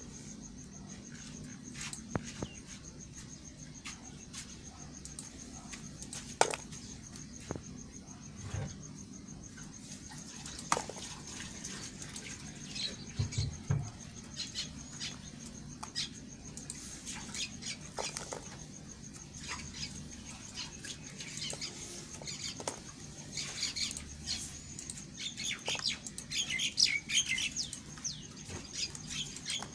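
A knife cutting and scraping bars of soap: scattered crisp clicks and crackles that grow denser and louder near the end.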